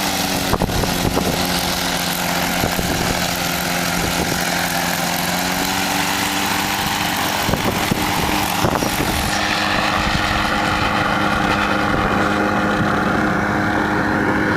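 An engine running steadily, its pitch shifting slightly about six seconds in, with a hiss of wind on the microphone that dies down about nine seconds in. A few sharp knocks are heard along the way.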